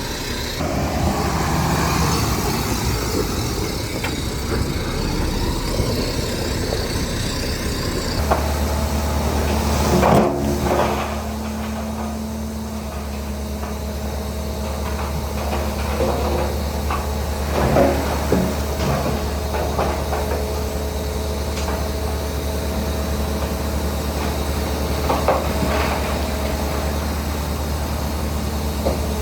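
Heavy earthmoving machinery working: a diesel engine running steadily, its low drone setting in about eight seconds in, with scattered knocks and clanks, the loudest about ten seconds in and again near eighteen seconds.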